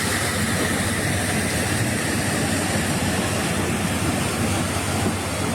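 Heavy rain pouring down in a steady rushing hiss, with a low hum underneath.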